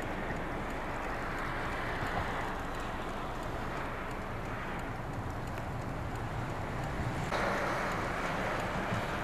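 Steady road noise of vehicles on a snow-covered road: an even hiss of tyres through snow and slush, changing abruptly about seven seconds in.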